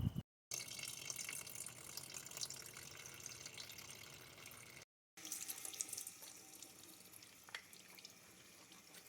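Liquid running and splashing steadily, a thin trickling hiss that cuts out briefly twice.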